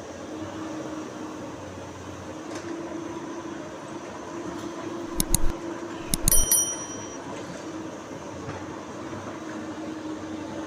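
Komatsu PC200 excavator's diesel engine running with a steady drone, broken about five and six seconds in by two clusters of sharp knocks, the second ringing briefly.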